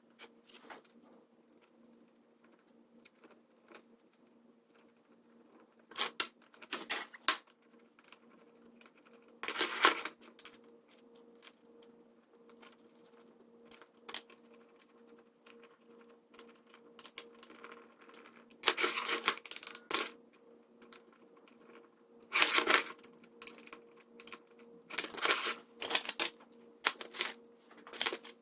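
Clicks and rattles of small hard parts being handled on a workbench, with a few short, louder clusters of clatter over a steady faint hum.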